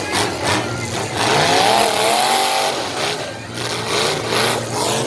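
Demolition derby cars' engines revving hard, their pitch rising and falling, with several sharp knocks.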